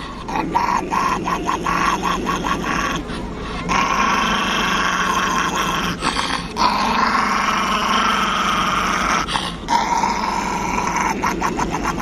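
A small dog growling and snarling angrily in long drawn-out stretches, broken into quick short pulses near the start and again near the end.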